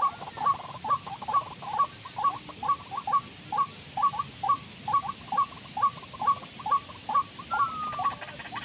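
A bird calling a long, even series of short, sharp notes, about two or three a second, with one longer slurred note near the end.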